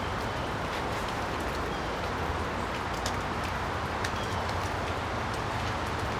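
Steady background noise with a few light clicks of small parts being handled, and faint short bird chirps.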